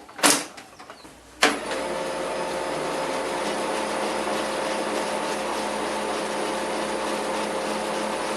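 HP LaserJet laser printer starting up about a second and a half in after a click, then running steadily through its test cycle with a constant hum and whir from the fuser drive gears. It is the test of a fix for a loud fuser rumble, with the fuser latches pressed tighter against the gears, and it stops abruptly near the end.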